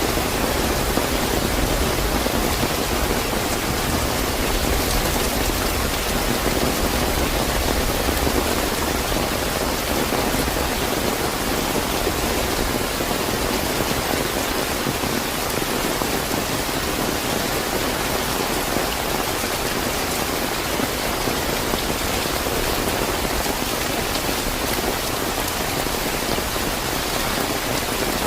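Steady, fairly heavy rain falling on surfaces, a dense continuous patter without let-up.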